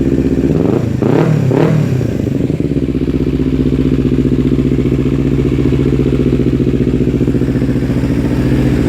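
Kawasaki Ninja 250 FI parallel-twin engine through an R9 Assen aftermarket exhaust, blipped twice in quick succession about a second in, then dropping back to a steady idle.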